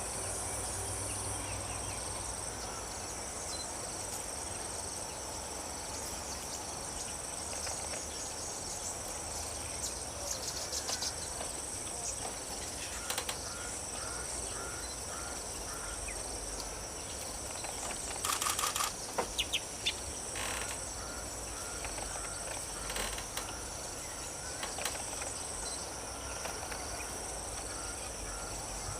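Insects trilling steadily in a high pitch, with runs of short chirps and a brief cluster of sharp ticks partway through.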